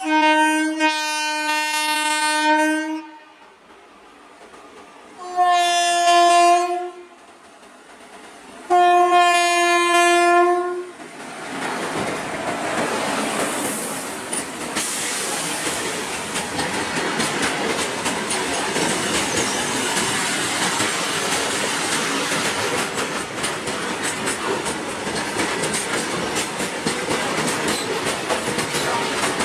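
WAG7 electric locomotive's horn sounded three times: one long blast of about three seconds, then two shorter ones. From about eleven seconds in, the locomotive and its loaded freight wagons run past steadily, with wheels clicking over the rail joints.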